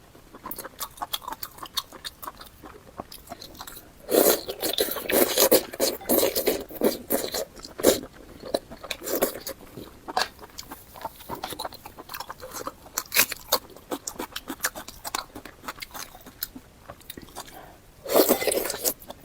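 Close-miked eating sounds: a person chewing and biting food, with many quick, sharp mouth clicks. It gets louder and busier from about four to eight seconds in, and again briefly near the end.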